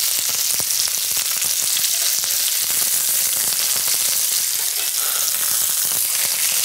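Prosciutto-wrapped chicken cutlets sizzling steadily in hot olive oil in a cast-iron skillet, with many small crackles and spatters as they are turned over with metal tongs.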